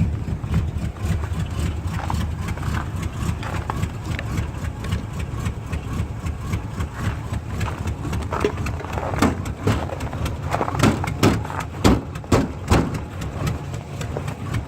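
Box Chevy Caprice engine idling steadily after a cold start in below-freezing weather, with footsteps on ice, loudest in the second half.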